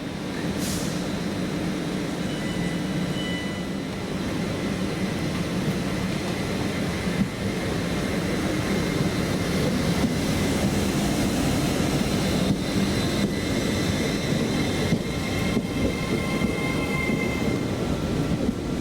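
A train running through the station: a steady rumble with thin, high squealing tones from the wheels, and faint knocks in the second half.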